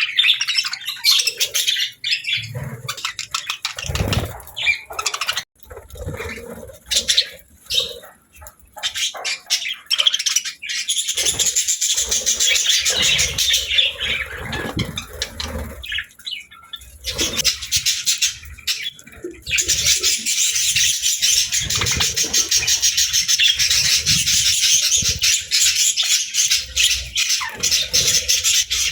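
Budgerigars chirping and chattering, patchy at first, then a dense, continuous warble from about eleven seconds in and again from about twenty seconds on.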